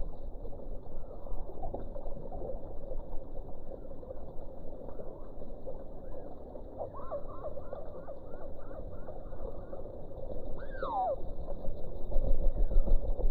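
Small birds chirping at a feeder: scattered short calls, with a quick run of repeated notes in the middle and a falling call a little later, over a steady low rumble that grows louder near the end.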